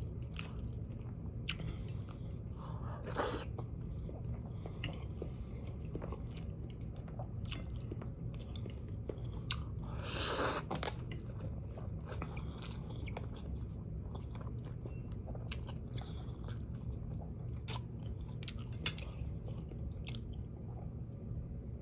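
A person chewing and eating spicy ramen noodles and boiled eggs close to the microphone: many small wet mouth clicks and smacks, with a louder breathy rush about halfway through, over a steady low hum.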